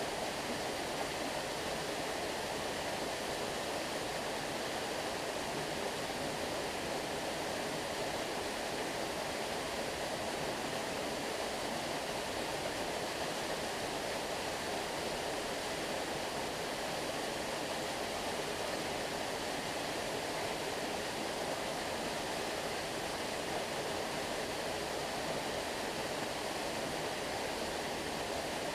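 Stream water rushing and babbling in a steady, unbroken flow.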